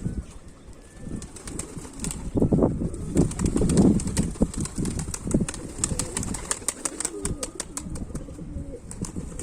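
Domestic pigeons cooing, with wing flaps and a run of sharp clicks in the second half.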